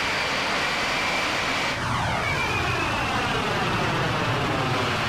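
Airliner flying overhead: a steady rushing engine noise with a high whine, which begins to sweep down in pitch about two seconds in as the plane passes.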